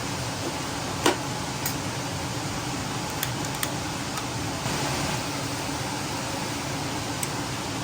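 Steady fan-like hum of the room with a sharp click about a second in and a few lighter clicks and taps after it, small objects being handled while setting up to dop a stone.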